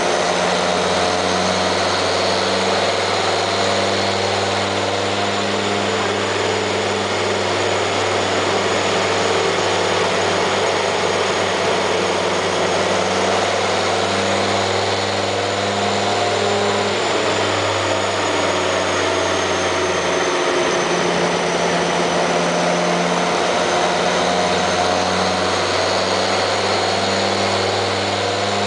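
A car engine idling steadily, with no revving, under a constant rushing noise and a faint high whine. The low hum weakens for a few seconds past the middle, then returns.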